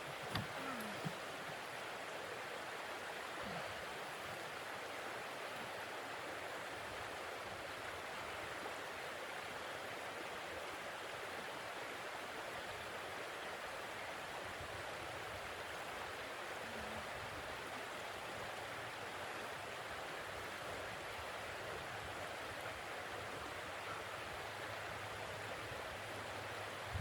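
Steady rushing wind of a blizzard, an even hiss that holds level without gusts, with a few faint ticks about a second in.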